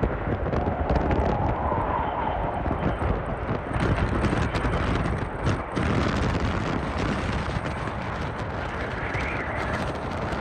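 Strong gusting wind buffeting the microphone, a loud uneven rush that swells and eases from moment to moment.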